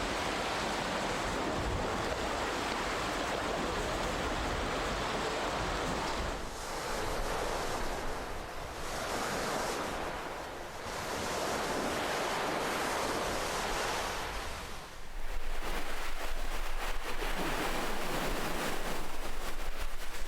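Ocean waves: a continuous wash of surf, with waves swelling and receding every couple of seconds through the middle, then a louder, rougher rush of water after a brief lull about fifteen seconds in.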